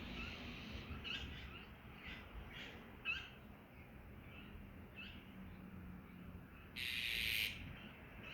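Small birds calling with short, high chirps scattered over the first five seconds, and a louder, harsh hiss-like burst about seven seconds in.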